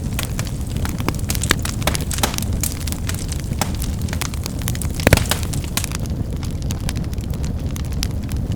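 Wood fire crackling and popping: scattered sharp snaps over a steady low rumble of flame, with one louder pop about five seconds in.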